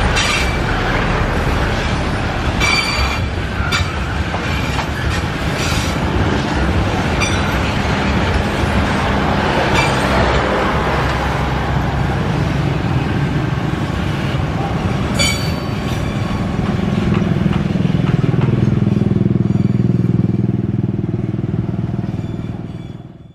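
Coal hopper wagons of a long freight train rolling past on the rails, a steady rumble with sharp wheel clacks over the rail joints in the first half. A low engine hum rises over it in the last several seconds, then everything fades out.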